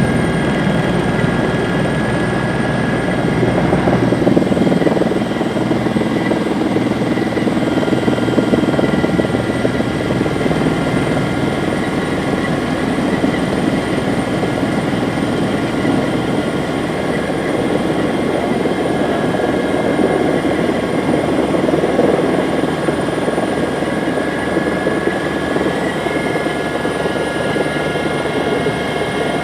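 Helicopter in flight heard from inside the cabin: loud, steady rotor and engine noise with a steady high whine on top.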